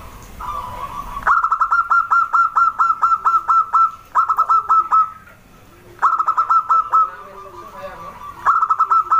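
Zebra dove (perkutut) calling: four runs of rapid, sharp, evenly spaced notes at about five a second, separated by short pauses, with softer low coos between the runs.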